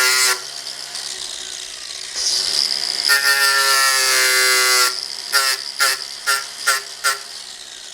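A sawmill mechanism being worked by hand, whirring with a steady mechanical hum. A long run partway through is followed by five short bursts in quick succession.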